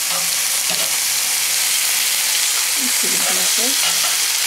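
Marinated chicken pieces sizzling steadily on a hot cast-iron grill pan, halfway through searing, as they are turned over with tongs.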